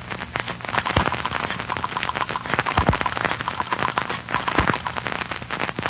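Dense, irregular crackle and pops of surface noise from an old radio transcription recording, over a faint low hum.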